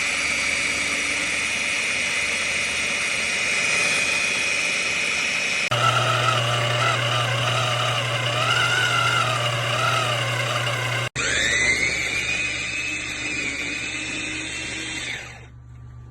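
Wancle 350 W electric food chopper's motor running with its blades spinning. The pitch holds steady at first, then wavers as if under changing load, and after a sudden break it spins up with a rising whine before running down near the end.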